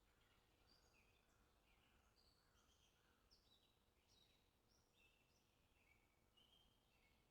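Near silence: a faint hiss with very faint, short, high chirping notes throughout.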